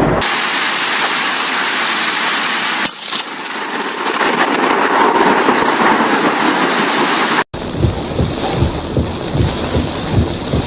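Thunderstorm: a steady hiss of heavy rain, then after a sudden cut about seven and a half seconds in, low rumbling thunder in repeated pulses under the rain.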